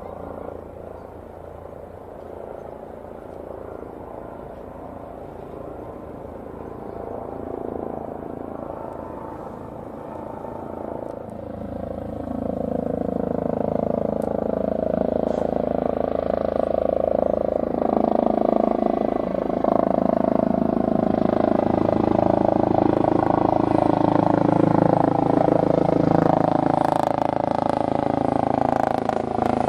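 Fainter aircraft noise at first, then an Airbus H145 helicopter approaching: its rotor and turbine sound grows louder from about 11 seconds in and stays loud, with a cluster of steady tones that slowly fall in pitch.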